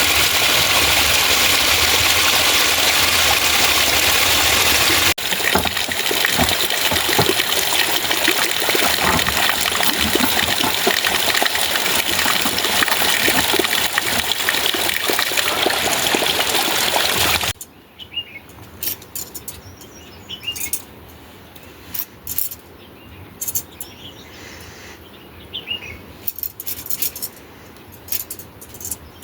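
A steady, loud rush of water, whose texture changes suddenly about five seconds in. About two-thirds of the way through it cuts off to a much quieter background with scattered short bird chirps and light clicks.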